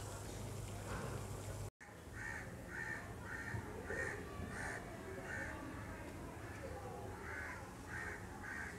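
A bird heard faintly, calling in two runs of short repeated calls, about two a second. The audio drops out for an instant just before the first run.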